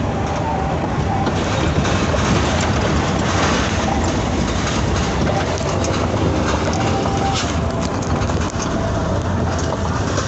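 Isuzu Giga truck driving on the road: steady engine drone mixed with tyre and wind noise.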